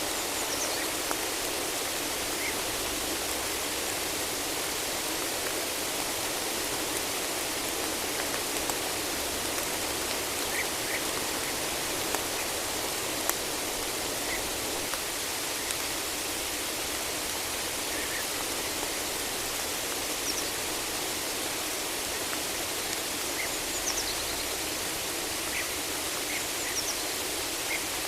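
Steady rain falling on a forest, an even hiss with no let-up, with a few faint, brief bird chirps scattered through it.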